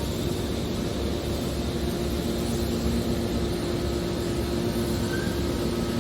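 Hydraulic scrap metal baler running, a steady mechanical noise with a constant hum.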